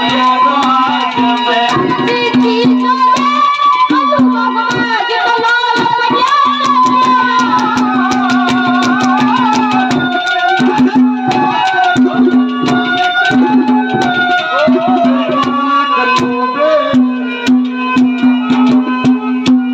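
Instrumental folk music: a harmonium plays a wavering melody over a held low note that breaks off now and then, with rapid hand-drum strokes throughout.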